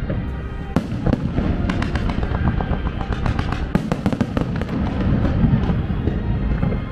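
Aerial fireworks display: a rapid, dense string of sharp cracks and bangs over a continuous low rumble, thickest in the middle of the stretch.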